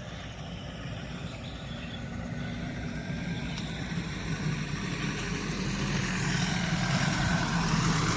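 A motor vehicle's engine running with a steady low hum, getting gradually louder.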